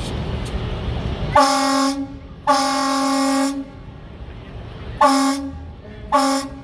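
A truck's horn honked four times: two longer blasts of up to about a second, then two short ones.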